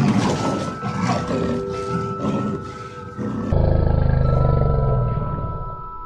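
Leopard growling in rough, pulsing calls over light background music; about three and a half seconds in, a louder, deeper, rapidly pulsing rumble takes over.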